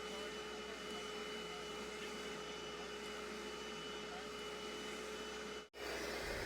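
A small electric motor running steadily, with a thin whine over a noise hiss, such as an upholstery extractor or vacuum. The sound cuts out suddenly for an instant near the end, then carries on.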